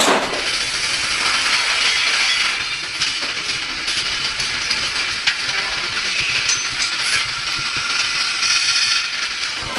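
Factory machinery running: a steady hiss with scattered metallic clicks and ticks.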